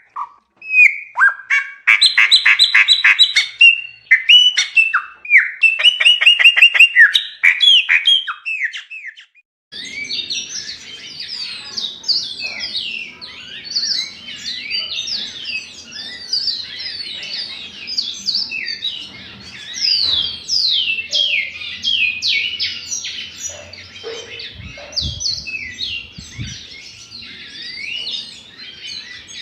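Songbirds singing: a loud song of trilled and whistled phrases for the first nine seconds or so, then, with a sudden change of recording, a different bird's rapid, continuous song of quick falling notes over faint background noise.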